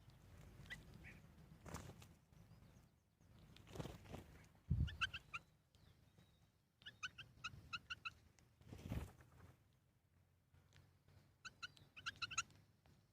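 A bird chirping in three quick runs of short, high notes, with a few dull thumps and rustling between them, the loudest thump about five seconds in.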